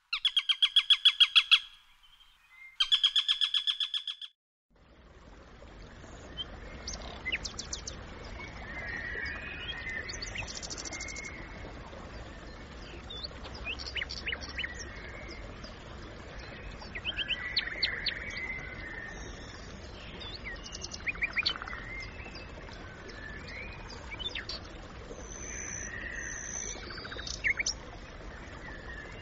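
Two loud bursts of a rapid, evenly pulsed chattering bird call open the sound. After a brief silence comes outdoor background with small birds chirping now and then, high and short, some in quick clusters.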